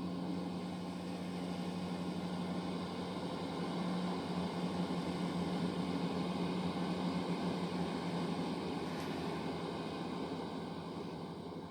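Diesel multiple unit train pulling out of the station: a steady engine hum over wheel and rail noise, the hum dropping away after about eight and a half seconds and the whole sound fading toward the end.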